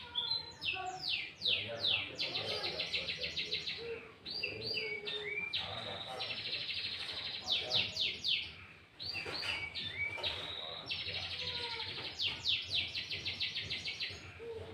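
Sooty-headed bulbul singing a loud, busy song of rapid runs of steeply falling notes and fast trills, with brief pauses about four and nine seconds in.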